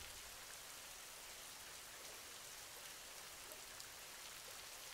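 Faint, steady sound of rain, with small scattered drop ticks.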